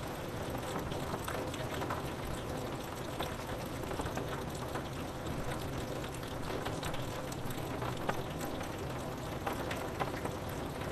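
Steady rain on window glass, an even hiss dotted with many small drop ticks.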